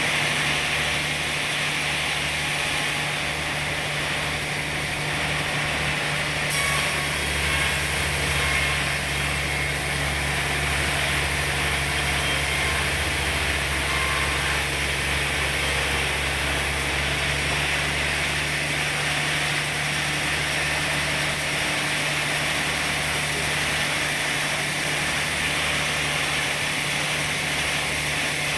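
Sawmill machinery running steadily: a constant low hum with a hiss above it, unbroken throughout.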